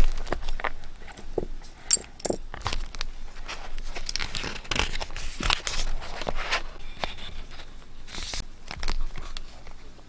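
Sheets of paper being handled close up for scrapbooking: rustling, crinkling and scraping in short irregular strokes.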